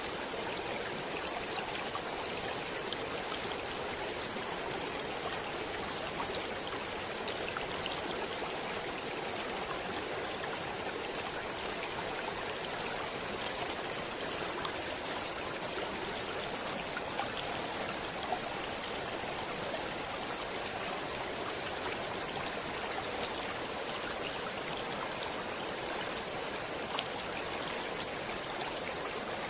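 Water flowing steadily in a stream: an even rushing with small splashes and drips scattered through it.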